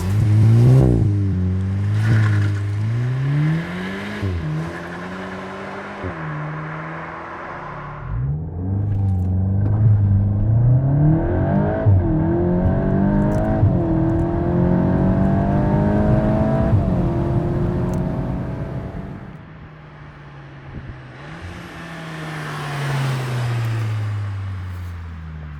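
VW Golf 8 GTI Clubsport's turbocharged 2.0-litre four-cylinder engine through a valved Armytrix exhaust, revving and accelerating, its pitch rising and falling again and again. It quietens about three quarters of the way through, then swells and fades once more near the end.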